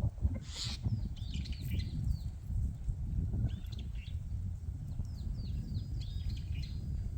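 Small birds chirping in short, quick, repeated notes, with a brief hiss about half a second in and a constant low rumble underneath.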